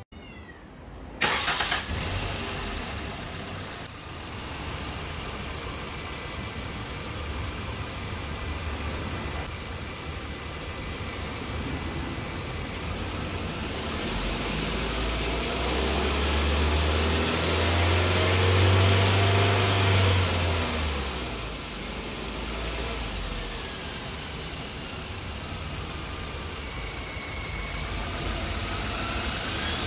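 Suzuki Jimny's 1.5-litre four-cylinder petrol engine starting about a second in, then idling. Past the halfway mark it revs gradually higher, peaking a few seconds later before dropping back to idle. The revving works freshly filled 0W16 engine oil through the engine after an oil change.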